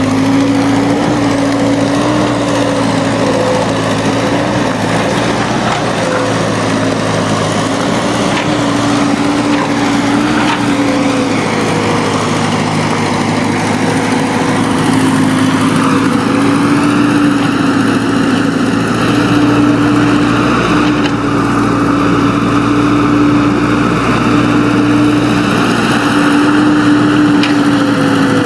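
Engine of a small earthmoving machine running steadily, its pitch wavering slightly. About halfway through, a higher whine joins in.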